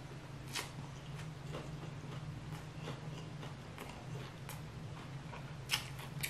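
Close-miked chewing with the mouth closed: scattered soft, wet mouth clicks, with two sharper ones about half a second in and near the end, over a faint steady low hum.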